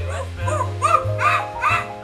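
Background music with steady low notes, and about half a second in, a run of short, yelping animal-like cries begins, two or three a second, each rising and falling in pitch. This is the mystery noise in the show that the performers take for something like a monkey.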